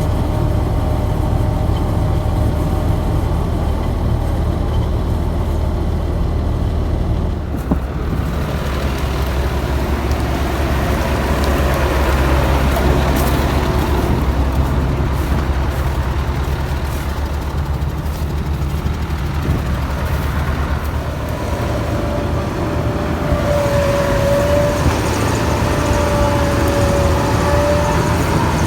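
Diesel engines of a Claas Jaguar 690 forage harvester and a Fendt Favorit 916 Vario tractor running steadily under heavy load while chopping maize. The sound shifts abruptly about seven and a half seconds in, and a wavering whine comes and goes near the end.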